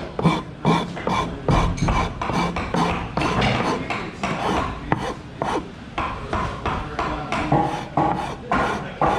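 Wood being turned on a foot-powered spring pole lathe: a turning tool scraping and cutting the spinning workpiece in a steady rhythm of about two strokes a second, one cut with each pump of the treadle.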